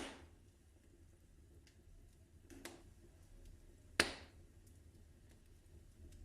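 Wood fire crackling in a fireplace: a sharp pop right at the start, a softer one about two and a half seconds in and another sharp pop about four seconds in, with faint ticking between.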